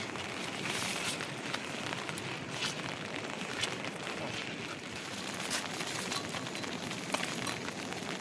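Heavy rain falling steadily, with scattered sharp ticks of drops through it.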